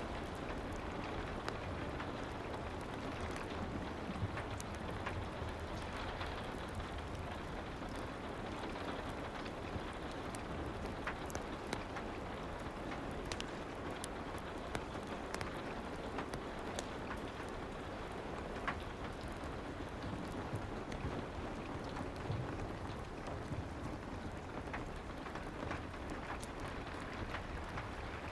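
Steady soft rain ambience, with scattered small pops and crackles through it from the fireplace track.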